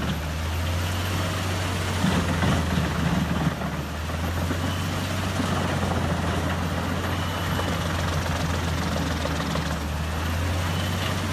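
Heavy diesel engine of a mobile wood-chipping machine running steadily under a deep, even hum, with no distinct bursts of grinding.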